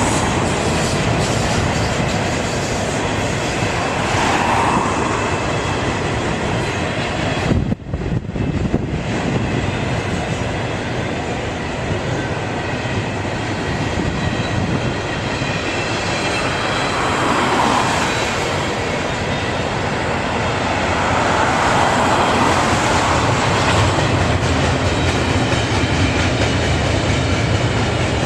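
Double-stack container freight train's cars rolling past close by: a steady rumble and clatter of steel wheels on rail, with a brief drop in the sound about eight seconds in.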